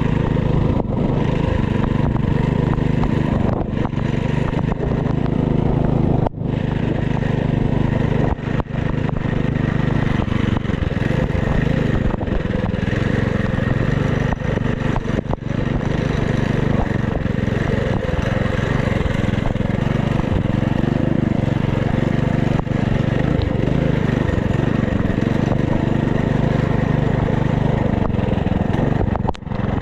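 FRP GMB100 minibike's small engine running under way, its pitch rising and falling with the throttle, with a few brief drops in sound.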